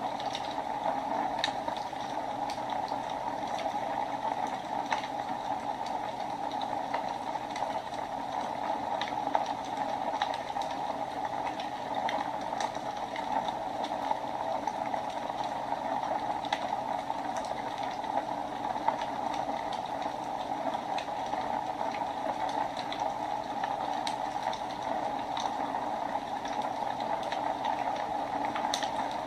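Wood fire burning in a fireplace: a steady rushing hiss with scattered, irregular crackles and pops.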